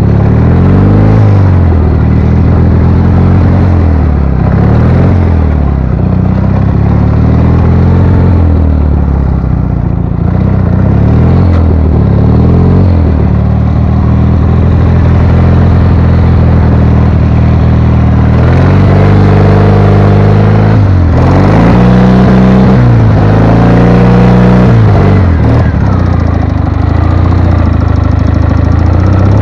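Ural motorcycle's IMZ 8.103.10 flat-twin engine revving up and down over and over under the throttle, its pitch rising and falling every two or three seconds, with quicker, deeper swings in the later part.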